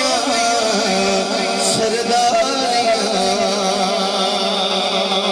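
Devotional singing of a Punjabi naat: a voice draws out a long, wavering melodic line that settles into held notes about halfway through, over a steady low drone.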